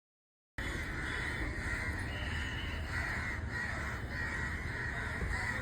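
Crows cawing over a low rumble, cutting in abruptly about half a second in after dead silence.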